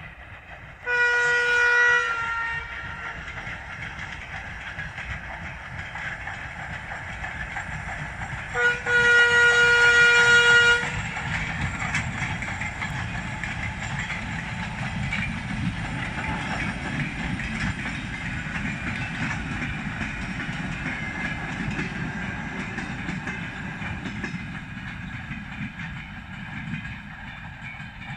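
Diesel locomotive horn sounding twice: a blast about a second in and a longer one of about two seconds starting near nine seconds in. Afterwards the locomotive and its train roll past as a steady noise that fades near the end.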